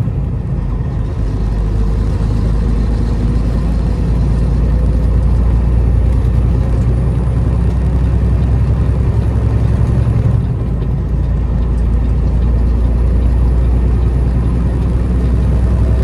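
Peterbilt semi truck's diesel engine running with a steady low drone under way, with a faint high whine above it. The sound dips briefly about ten seconds in.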